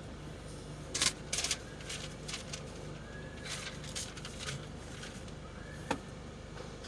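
Steady low background hum with scattered sharp clicks and knocks and a couple of faint short rising chirps.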